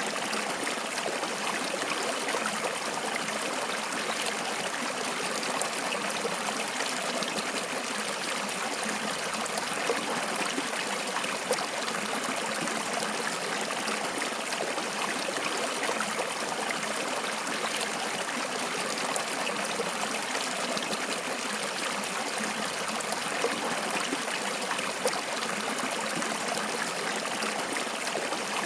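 Water flowing steadily in a stream, a continuous rushing with small splashes and trickles ticking through it.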